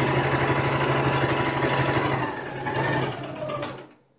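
Electric sewing machine running steadily at speed, stitching the waistband seam of a blouse; it starts abruptly and stops shortly before the end.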